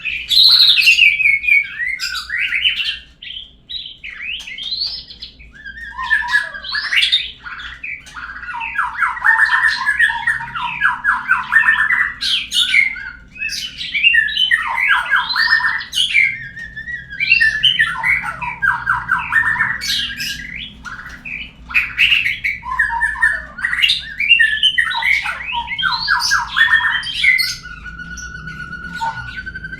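Murai bird song used as a lure call: loud, varied whistled phrases broken by fast rattling trills, repeating every few seconds, with a steady held whistle near the end.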